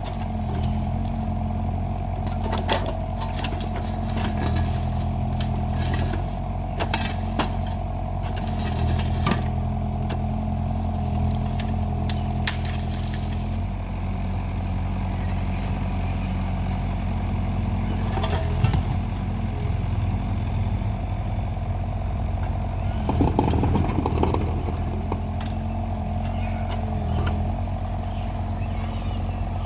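Kubota excavator's diesel engine running steadily under a constant whine, with scattered knocks and clanks and a short rattle about two-thirds of the way through.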